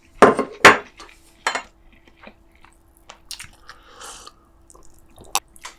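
Eating utensils clattering and clinking against dishes at a meal table: two loud clatters within the first second, then scattered light clicks and scrapes, with a sharp tick near the end.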